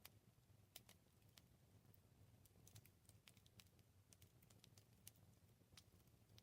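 Faint wood campfire crackling: scattered small snaps and pops over a soft low rumble.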